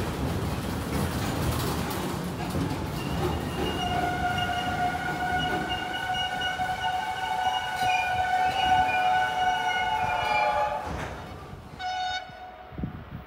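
A train running past with a loud rumble, then its horn sounds one long blast of several seconds, followed by a short toot near the end as the train noise fades away.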